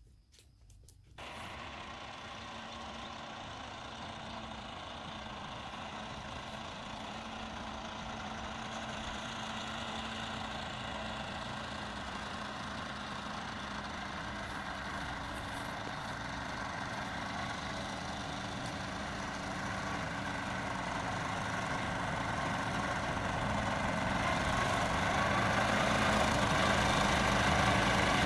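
A vehicle engine starts running about a second in and keeps going steadily, growing slowly louder.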